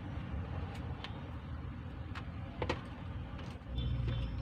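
Electrical wires being spliced by hand: a few short, sharp clicks and ticks over a steady low background rumble.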